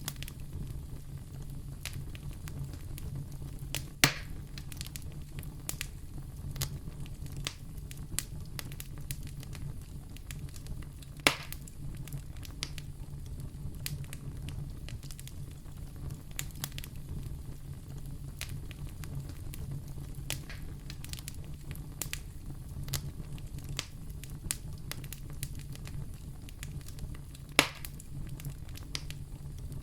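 Wood fire burning in a fireplace: a steady low rumble under constant small crackles, with three louder pops spread through it.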